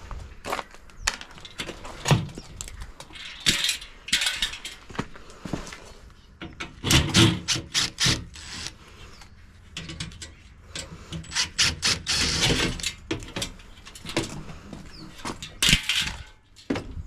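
Dishwasher being dismantled by hand: irregular knocks and clicks of tools on metal and plastic parts, with several longer scraping bursts.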